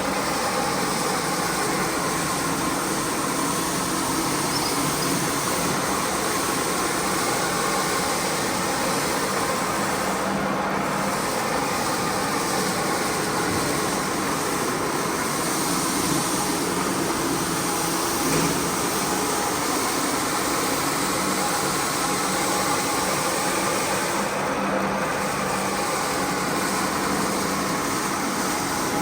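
Carpet-cleaning machinery running steadily: a continuous noise with a faint hum underneath, not changing much.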